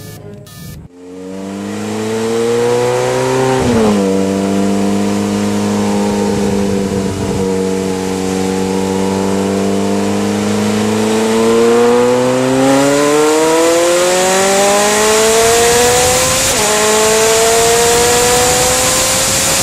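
Car engine accelerating hard through the gears: its pitch climbs steadily in each gear and drops sharply at a gear change about four seconds in and again twice near the end. A rushing hiss grows louder about two-thirds of the way through, and a few beats of music cut off about a second in.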